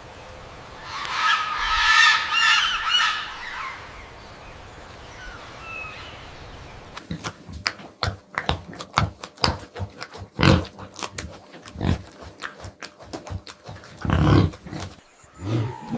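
Pig vocalising: a drawn-out, pitched squeal about a second in, later a rapid series of short clicks and knocks, and a low grunt near the end.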